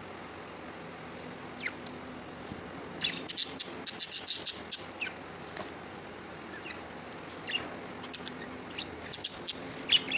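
Budgerigars chirping in quick, high-pitched runs of short notes. The chirps are busiest about three to five seconds in and again near the end.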